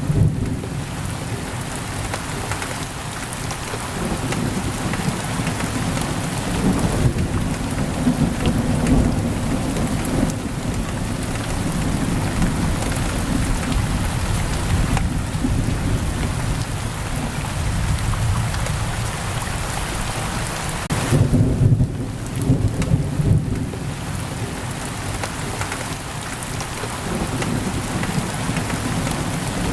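Heavy rain pouring steadily against a window, with low rolling rumbles of thunder that swell loudest about two-thirds of the way in.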